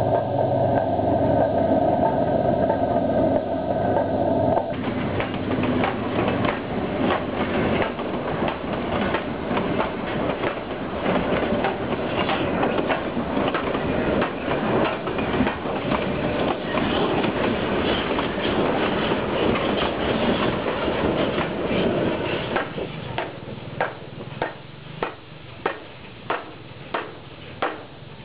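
A diesel locomotive's horn sounds a steady chord for about four and a half seconds as the train arrives. Then the train rolls past: a long, loud clatter of steel wheels over the rail joints under the passenger coaches. Near the end the clatter drops away, leaving a sharp click that repeats about every two-thirds of a second.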